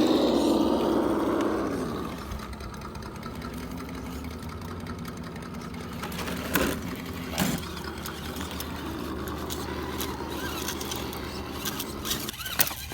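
RC rock crawler running: a motor and gear whine that eases off after about two seconds, then a steady low engine-like hum, with two sharp knocks near the middle and a few clicks near the end.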